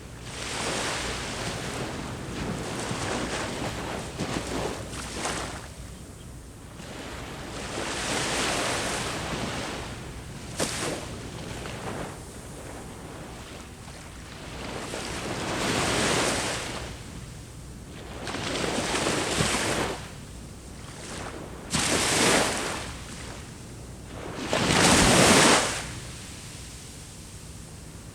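Sea waves breaking and washing up the shore, a fresh surge swelling and fading every few seconds, the loudest about 25 seconds in.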